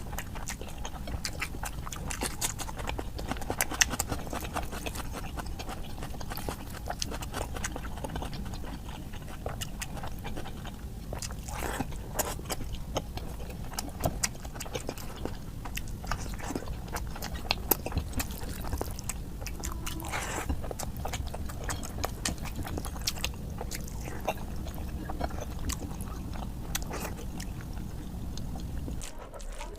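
Close-miked chewing and wet mouth sounds of a person eating curry and rice: irregular smacks, clicks and slurps.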